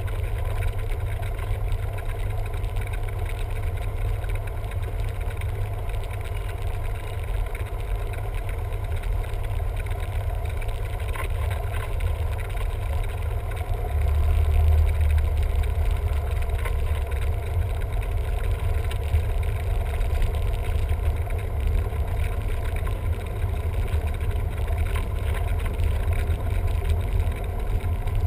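Cessna 172M's four-cylinder Lycoming engine and propeller running steadily with a deep drone, getting louder about halfway through.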